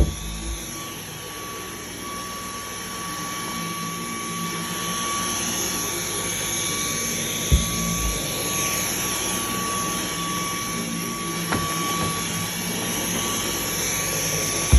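Dyson cordless stick vacuum running, a steady motor whine with rushing airflow that slowly swells as the cleaner head is pushed back and forth across the floor. A few single knocks come near the start, about halfway through, and at the end.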